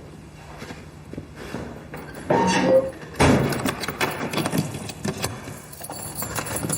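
Keys jangling and a door being worked, with a loud scrape about two seconds in and a clattering bang just after three seconds.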